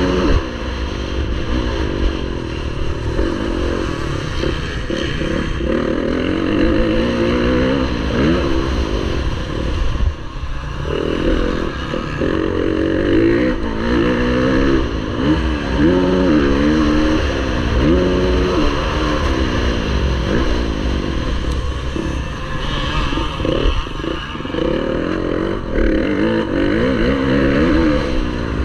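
Motocross bike engine at racing pace, its pitch climbing under throttle and dropping back over and over as the rider accelerates, shifts and backs off, with rattling from the bike over the rough track.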